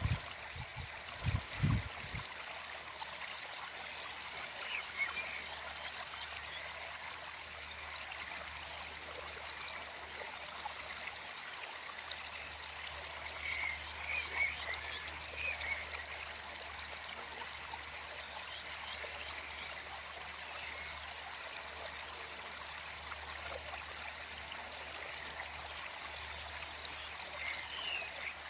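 Small forest stream flowing steadily over rocks. A few times, small animals give short clusters of quick, high chirps. A few low thumps come in the first two seconds.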